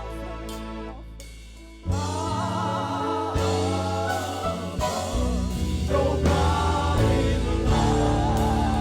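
Live gospel praise-and-worship music: sustained chords fade for about two seconds, then the band comes back in louder with singers holding long, wavering notes.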